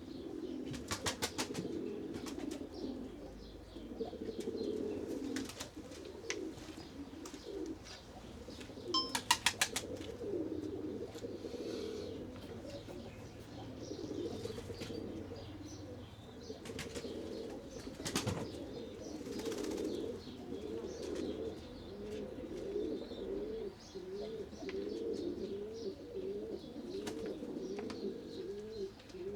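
Several domestic pigeons cooing without a break, in low warbling calls that overlap. Quick runs of sharp taps come about a second in and again around nine seconds in.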